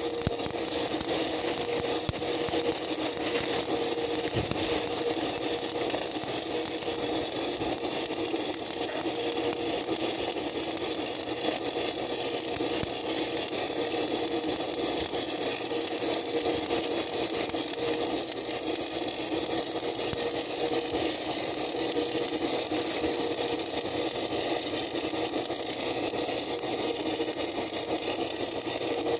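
Stick-welding arc with 6011 or 7018 electrode burning, a steady crackling hiss over a steady hum.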